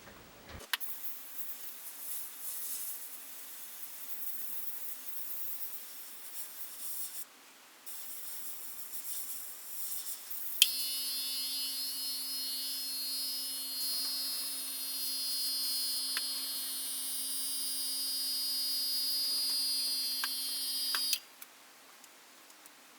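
Airbrush spraying paint: a high air hiss that swells and fades as the trigger is worked, with a short break partway through. About ten seconds in, a steadier, louder hiss with a low hum and a high whine starts, runs for about ten seconds, and cuts off suddenly.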